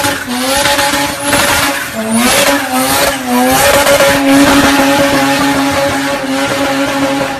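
Car engine and exhaust held at high revs, its steady pitch dipping briefly and climbing back three times.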